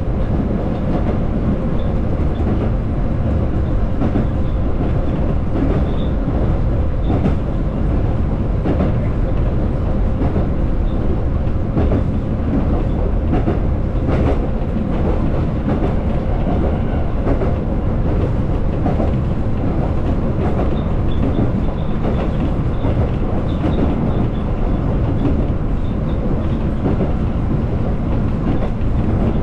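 Konan Railway electric train running steadily along the line, heard from on board at the front. A continuous rumble of wheels on rail, with occasional light clicks over rail joints.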